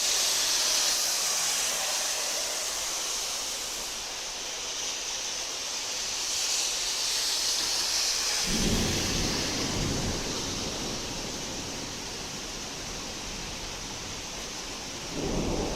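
Heavy rain falling in a steady hiss. A low roll of thunder comes in a little past halfway and lasts a couple of seconds, and another begins near the end.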